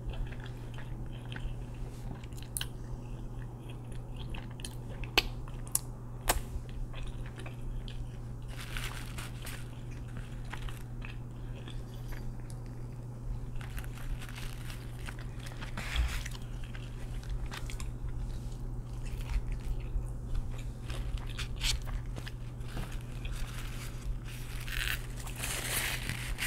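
Close, amplified chewing and biting of a crispy fried chicken sandwich, with crunches and wet mouth clicks. Near the end a paper napkin rustles as the hands are wiped.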